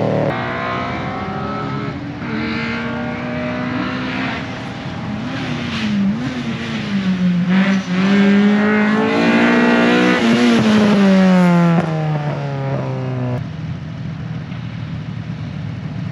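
Rally car engine on a tarmac course, its pitch rising and falling as it is revved up and down. About eleven seconds in it drops steadily in pitch as the car slows, and about thirteen seconds in it cuts off.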